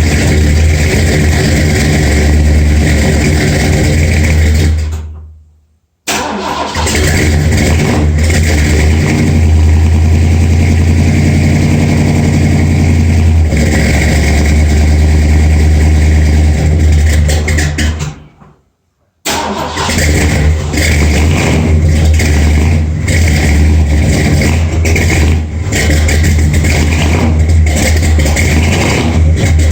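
Ford 429 big-block V8 with an Edelbrock Performer RPM cam, running steadily and loud shortly after a cold start; the uploader calls it pretty cold-blooded. Twice the sound fades out to nothing, about five seconds in and again about eighteen seconds in, then comes back suddenly at full level.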